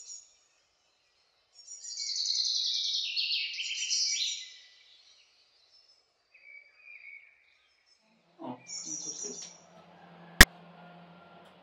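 A bird singing: a long, rapid, high chirping trill lasting about three seconds, then a shorter burst of chirps about nine seconds in. Near the end a single sharp click is the loudest sound, over a faint low hum.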